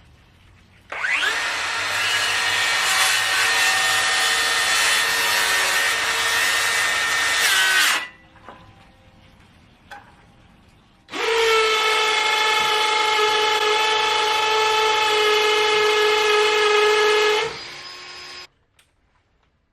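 Power saw cutting wood twice, each cut lasting several seconds with a steady motor whine under the cutting noise; after the second cut the motor winds down briefly. Typical of notching floor joist boards.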